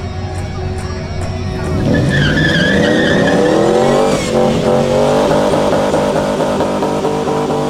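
Car engine revving hard for a burnout, its pitch climbing from about two seconds in, with the tires squealing as they spin on the pavement.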